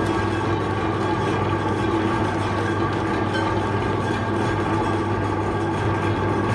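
Electric meat grinder motor running steadily with a constant hum.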